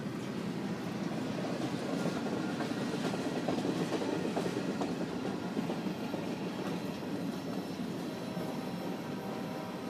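Freight train's tank cars and boxcars rolling past a grade crossing: a steady rolling noise of steel wheels on the rails, a little louder near the middle and easing off over the last few seconds.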